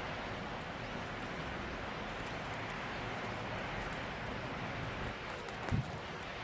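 Steady rain, an even hiss with scattered light ticks of drops. A short, low thump near the end.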